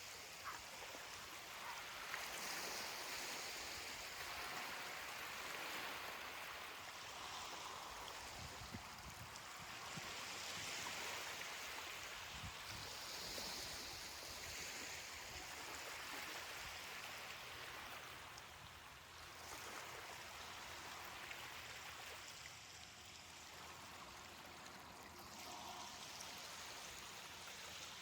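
Ocean waves washing onto a beach: a steady hiss of water that swells and fades every few seconds as the waves break and run back.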